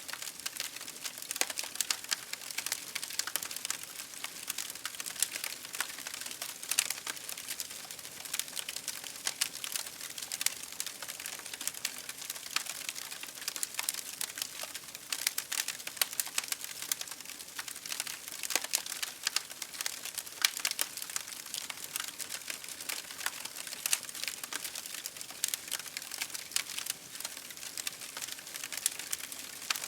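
Campfire crackling: a continuous run of irregular sharp pops and snaps over a soft hiss of burning wood.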